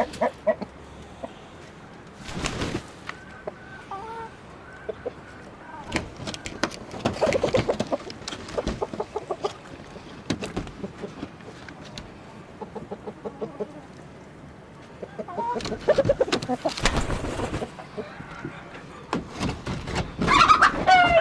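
Domestic chickens clucking in several rapid bouts, loudest near the end, with a single thump about two and a half seconds in.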